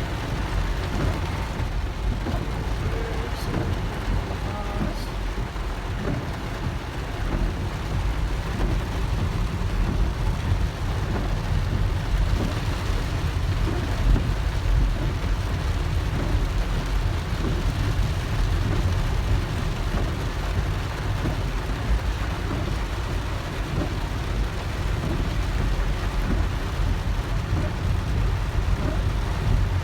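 Heavy rain falling on a moving car, heard from inside the cabin, over a steady low road rumble.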